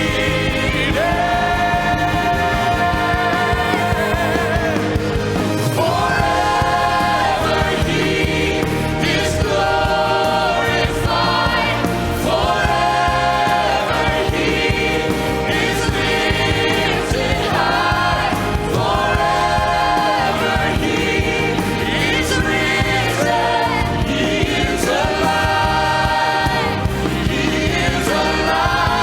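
Live worship band playing, with a vocal group singing long held phrases over it.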